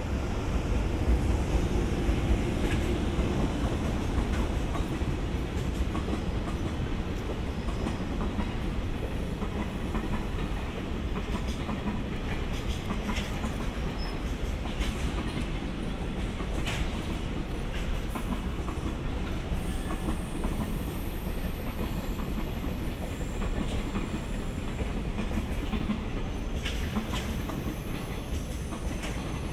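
Freight train passing close by: a JR Freight EH200 electric locomotive goes by first, loudest in the first few seconds, followed by a long string of container wagons rolling past with a steady rumble and wheels clicking over the rail joints.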